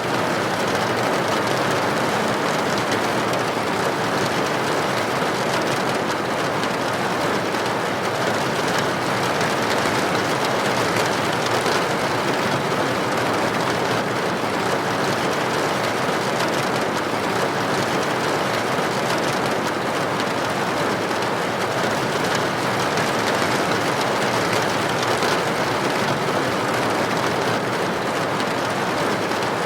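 Steady rain falling against a building window: an even, unbroken hiss with no change in strength.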